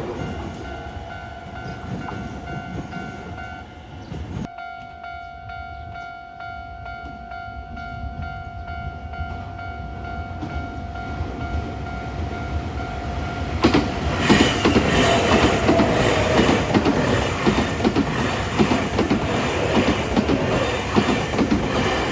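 Level-crossing warning alarm ringing with steady repeating tones. From about 14 seconds in, a Nankai electric train passes over the crossing, loud, its wheels clacking over the rail joints.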